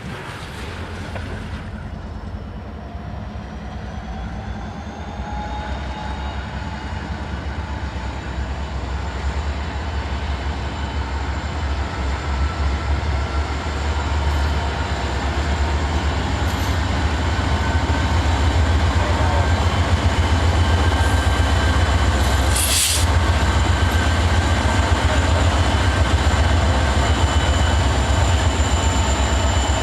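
Diesel freight train approaching, its deep engine rumble growing steadily louder, with thin whining tones slowly rising in pitch. A single sharp crack about two-thirds of the way through.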